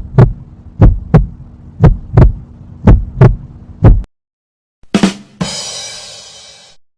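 Heartbeat sound effect: paired low thumps in a lub-dub rhythm, about one beat a second, stopping after about four seconds. After a short pause comes a sharp hit, then a noisy sound that fades out over about a second and a half.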